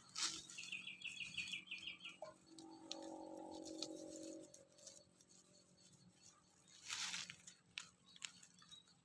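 Faint background sounds: a bird gives a quick trill of about nine high chirps, then comes a lower, held tone lasting about two seconds. A brief rustle follows near the end.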